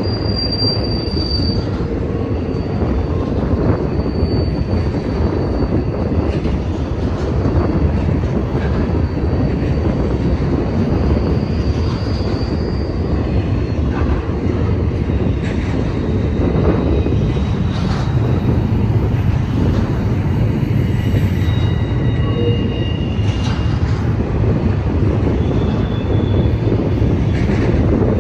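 BNSF intermodal freight train rolling past with a steady, loud rumble of wheels on rail. Thin, high wheel squeals come and go over it.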